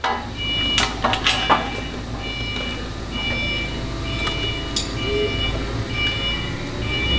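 Electronic warning beeper sounding a steady two-tone beep about one and a half times a second, like a lift or forklift motion alarm, over a low shop hum. A few sharp metal clanks come in the first second and a half.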